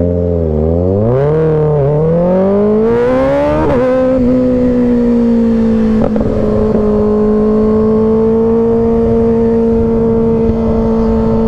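Kawasaki Ninja ZX-6R's 636 cc inline-four accelerating away from a standstill. The revs rise and fall in the first two seconds, then climb steadily, dip at a gear change about four seconds in, and settle to a steady cruising drone.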